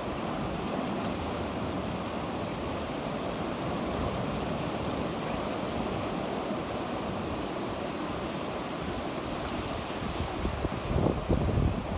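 Sea waves washing onto the shore in a steady rush of surf. Near the end, gusts of wind buffet the microphone in uneven low rumbles.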